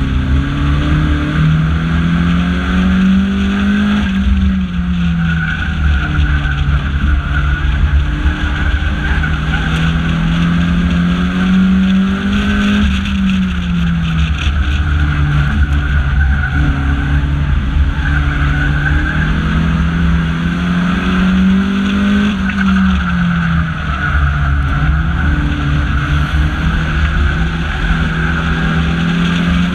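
Banger racing car's engine heard from inside the cabin, climbing in pitch as it accelerates and dropping back as the throttle comes off, about four times, over steady tyre and wind noise.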